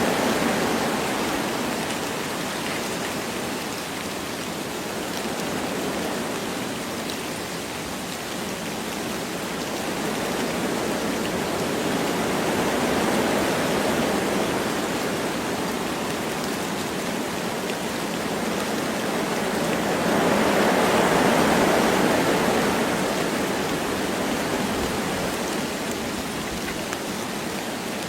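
Wind blowing through forest trees with light rain falling, a steady hiss that rises and falls in slow gusts, the strongest gust about twenty seconds in.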